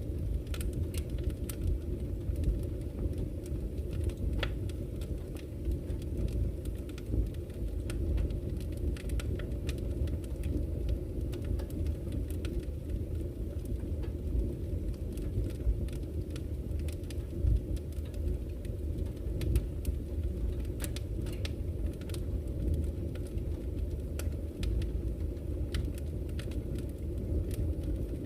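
Campfire crackling, with frequent sharp pops and snaps over a steady low rush of fire and flowing river water.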